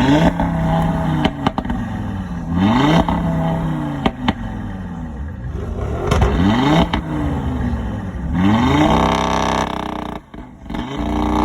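A car engine revving repeatedly, its pitch climbing and dropping back about four times, with a brief lull near the end before it picks up again.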